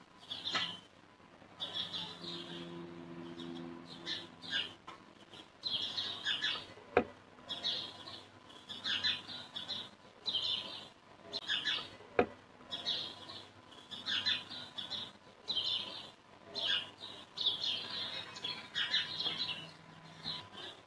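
Small birds chirping over and over in short, high bursts, with two sharp knocks about five seconds apart.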